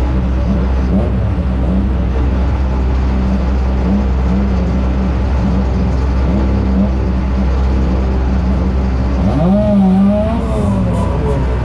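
1-litre stock car engine running hard, heard from inside the stripped cockpit over a steady low rumble, its pitch wavering with the throttle. Near the end the revs rise sharply, dip and rise again, the loudest moment.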